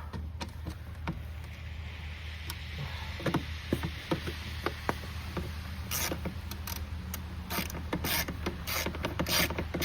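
Clicks and rattles of a T25 Torx screwdriver being handled and set to the screws of a car's plastic air filter housing cover, with a run of quick clicking from about six seconds in.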